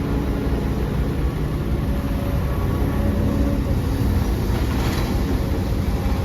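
Heavy diesel earthmoving machinery running steadily, with a brief hiss about five seconds in.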